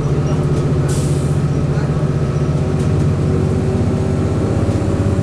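The Cummins ISC inline-six diesel of a 2002 Blue Bird CS transit bus running at a steady pitch, with a short hiss of air about a second in.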